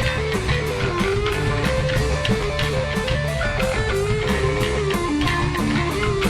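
Live rock band playing an instrumental break: a lead electric guitar plays a wandering, bending melody over bass and a steady drum beat.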